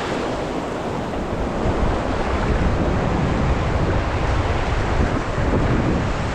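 Rushing river whitewater around a raft, with wind buffeting the microphone.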